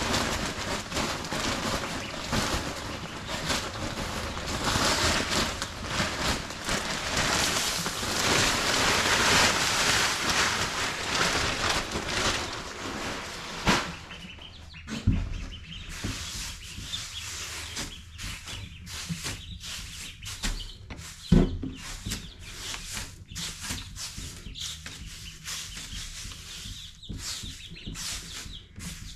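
Young ducks and chickens rustling and flapping in brooder bedding, loud and dense for about the first 14 seconds. It then settles to quieter scratching and scattered clicks, with two knocks about 15 and 21 seconds in.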